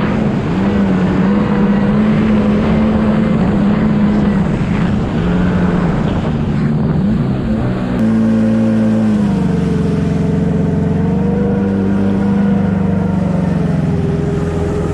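Two-stroke jet ski engine running hard, its pitch wavering up and down with the throttle. The sound changes abruptly about eight seconds in.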